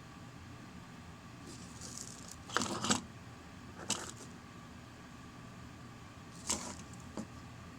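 Small hard objects being handled: a short clattering rattle about two and a half seconds in, then a few single light clicks, over a faint steady room hum.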